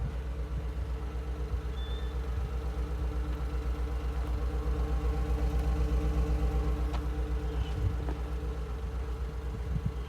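Truck engine idling steadily on a cold start, with an even, rapid low pulse.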